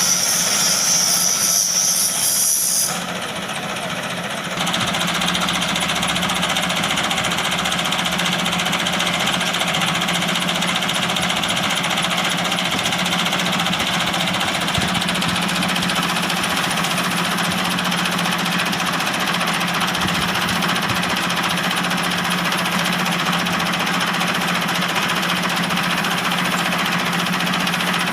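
Tractor engine running at a steady speed. A loud high hiss lies over it for the first three seconds, then the level dips briefly before the steady engine sound returns.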